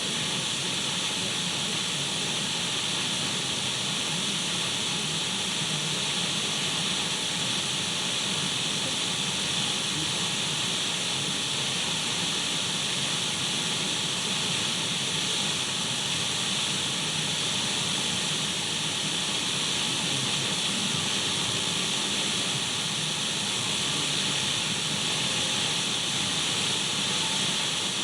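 Radio static: the steady, unchanging hiss of a radio tuned between stations, brightest in the upper-middle range.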